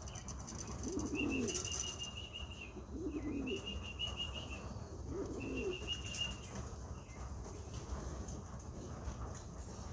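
Flight pigeons cooing in the loft: three low, falling coos about two seconds apart, with a short rustling burst about a second and a half in.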